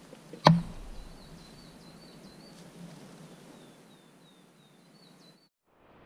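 A sharp knock about half a second in, then a bird calling in a rapid run of short high chirps over steady outdoor background noise; the sound cuts off abruptly near the end.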